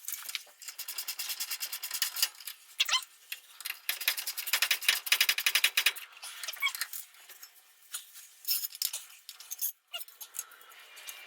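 Bursts of rapid metallic clicking and rattling from hand tools worked on steel suspension parts, coming in several runs with short pauses.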